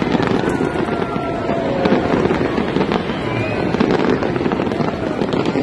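Fireworks crackling and popping, with many quick sharp cracks, over the steady din of a large crowd.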